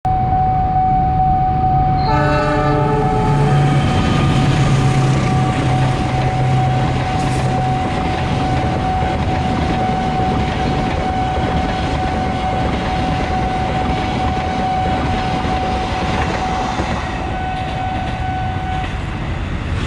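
Passenger train running through a level crossing. The locomotive gives a short horn blast about two seconds in, its diesel engine drones low, and the coaches keep up a steady rolling noise. Over it all the crossing's warning signal holds one steady tone, which stops near the end.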